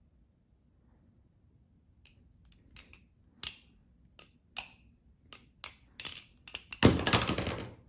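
Butterfly knife being flipped in index rollovers, its handles clacking shut against the blade in sharp metal clicks, two or three a second. Near the end comes a louder clatter lasting about a second.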